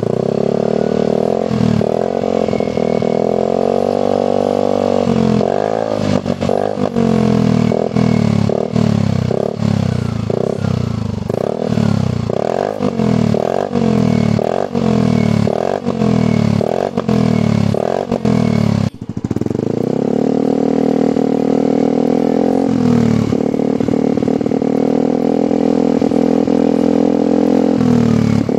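Yamaha NMAX scooter's single-cylinder engine running through a long oval replica DOS aftermarket silencer, revved in the stand. It is held at raised revs, then blipped about once a second a dozen times, dips briefly, and is held at steady revs again.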